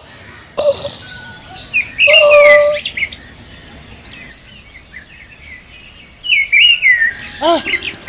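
Birds chirping and calling in short gliding phrases, loudest about two seconds in and again near the end, with a quieter stretch between.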